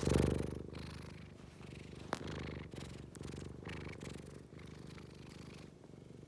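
Scottish Fold cat purring, a fast low rumble that is loudest at the start and settles to a softer purr. A single sharp click sounds about two seconds in.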